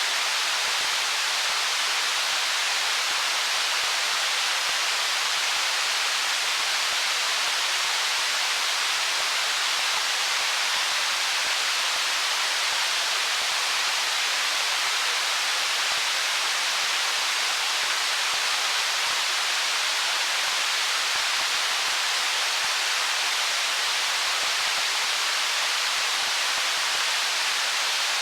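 Stream water running steadily over stones: an even, unbroken hiss, mostly high and with very little low rumble.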